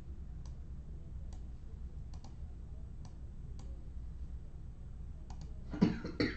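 Scattered light clicks and taps, then a short, louder clatter of two knocks near the end, over a steady low hum.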